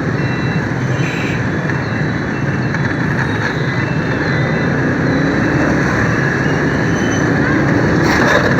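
Steady rush of wind and city traffic heard from a moving motorbike, with engines running around it. A faint rising engine tone comes in midway, and there are a few sharp clatters near the end.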